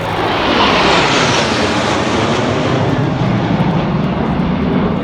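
F-16 fighter jet passing overhead: a loud jet roar that swells to its highest, harshest point about a second in, then sinks lower in pitch as it moves away.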